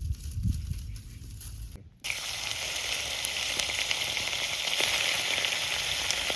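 A low rumble for about two seconds, then an abrupt change to food frying in hot oil in a pan: a steady, loud sizzle with small crackles.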